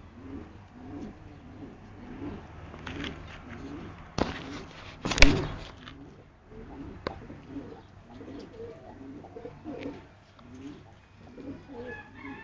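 Several pigeons cooing over and over in low, rolling calls. A loud burst of noise runs from about four to six seconds in, and a sharp click follows about a second later.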